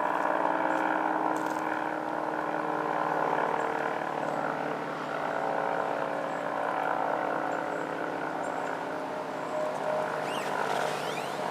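ACA P-50 50-horsepower dual-tone rotating outdoor warning siren sounding a steady chord, its level slowly rising and falling as the rotor turns.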